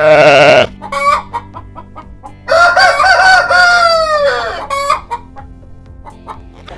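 Rooster crowing once, one long call of about two seconds that drops in pitch at its end, with short clucking notes before and after it.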